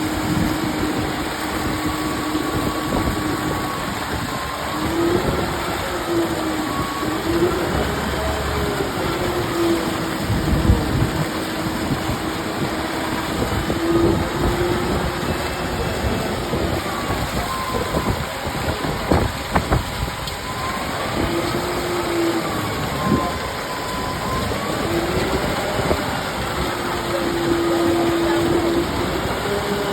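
Concrete mixer running, its engine hum holding steady and then rising and falling in pitch several times, over a rumbling clatter with a few sharper rattles a little past the middle.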